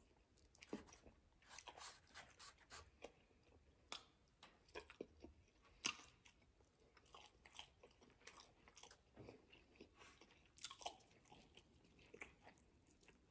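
Close-miked eating of bone-in chicken wings: soft chewing and biting, with irregular crunches and wet mouth clicks.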